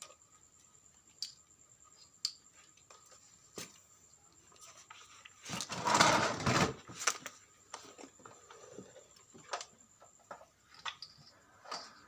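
Handling noises from work on a small device: scattered sharp clicks and taps, with one louder scraping, rustling noise lasting about a second around the middle, over a faint steady high tone.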